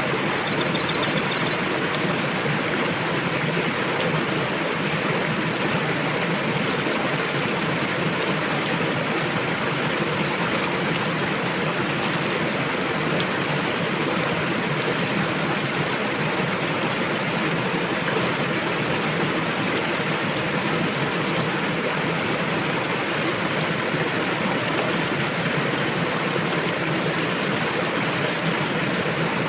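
Fast-flowing river rushing steadily over its bed. A bird gives a brief high trill just at the start.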